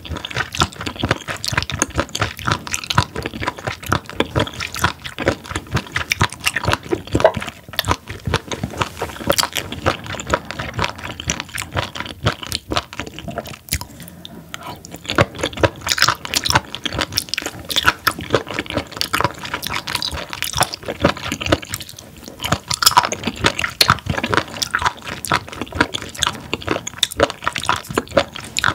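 Close-miked chewing of raw spoon worm (gaebul) dipped in sauce: rapid crisp crunching mixed with wet, squishy chewing.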